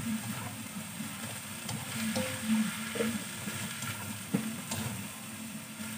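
Kway teow (flat rice noodles) with vegetables sizzling as they are stir-fried in a frying pan, with a spatula scraping and tapping the pan every second or so.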